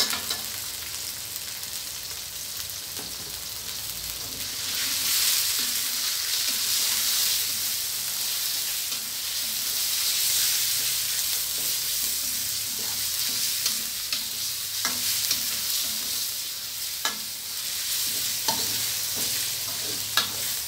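Raw chicken pieces sizzling in hot oil and red curry paste in a steel wok while a spatula stirs and scrapes them around the pan. The sizzle grows louder about four seconds in, and the spatula clicks sharply against the wok now and then in the second half.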